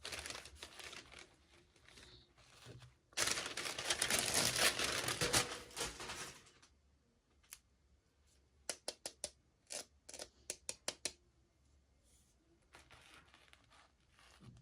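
Toy packaging being handled and opened: rustling and tearing, with a loud stretch of crinkling in the middle. A run of quick, sharp clicks follows, then faint rustling.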